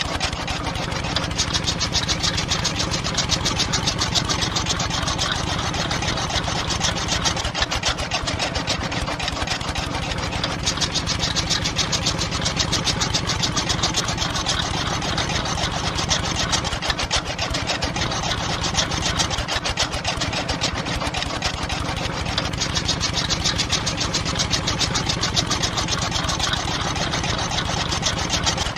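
A small motor running steadily with a fast, even chatter and a low hum underneath, its higher clatter swelling and easing a few times.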